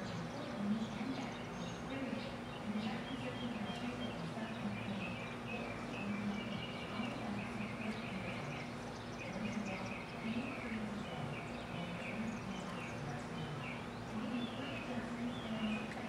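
Small birds chirping, many short chirps in quick runs throughout, over a low wavering hum.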